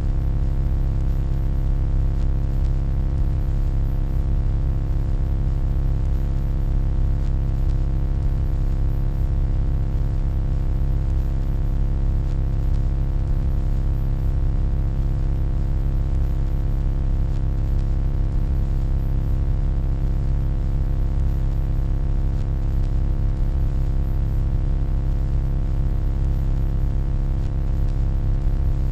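Steady electronic hum: a deep, unchanging low drone with many fixed tones layered above it and a faint high whine.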